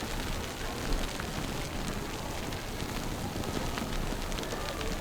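Steady outdoor noise with wind rumbling on the microphone during a snowstorm, with scattered faint crackles.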